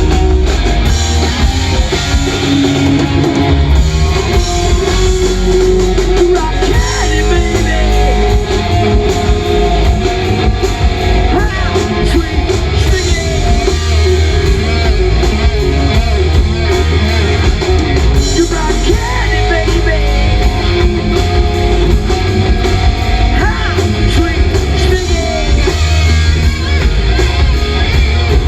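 Live rock band playing loud, with distorted electric guitars, bass and drum kit, and singing over the top.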